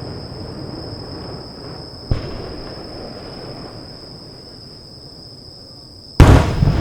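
Aerial firework shells bursting. The rumble of an earlier burst fades away, a sharp bang comes about two seconds in, and a much louder bang follows near the end.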